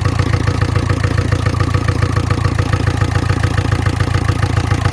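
Freshly overhauled Ford Figo diesel engine idling steadily with an even diesel clatter, just after its first start. Oil pressure is up and oil is circulating.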